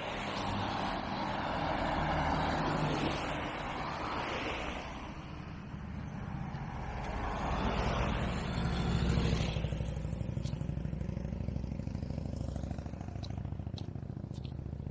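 Road traffic: vehicles passing by with a rising and fading rush, twice, over a steady low engine rumble that settles into an even, fast pulse in the second half.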